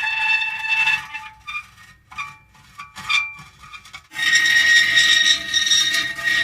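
Metal creaking: a drawn-out, high-pitched squealing creak that breaks after about a second into a few short, quieter creaks, then returns as a loud sustained creak about four seconds in.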